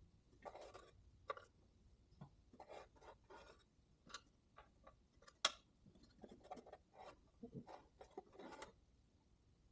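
Faint, scattered clicks, taps and scrapes of small engine parts being handled and fitted back on by hand, about a dozen short sounds with the sharpest click about five and a half seconds in.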